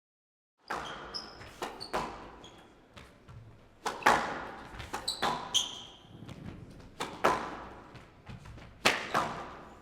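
Squash rally: sharp cracks of the ball off rackets and the court walls, roughly one every one to two seconds, each ringing briefly in the hall, with short high squeaks of shoes on the court floor between them.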